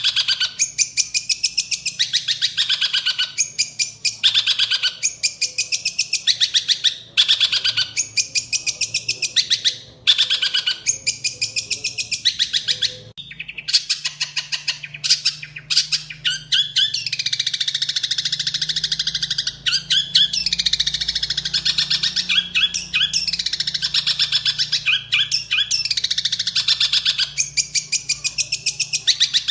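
Long-tailed shrike singing: fast, harsh chattering phrases of rapidly repeated notes. For the first half the phrases are short with brief pauses between them; about halfway through they run into a longer, more varied stretch of song.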